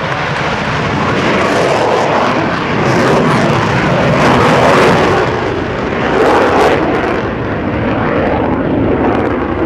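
Vought F4U Corsair's radial piston engine and propeller running as the fighter flies its display, swelling louder as it passes about halfway through.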